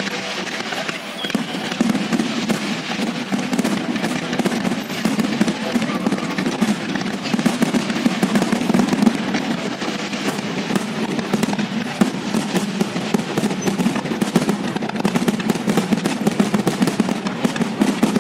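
Fireworks display: a dense, unbroken run of bangs and crackles from many shells bursting close together, growing louder about two seconds in.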